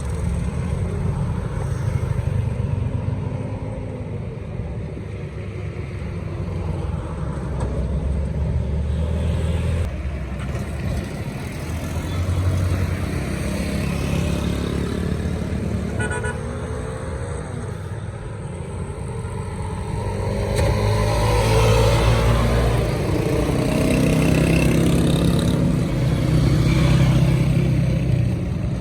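A motor engine running, its pitch rising and falling, louder in the last third.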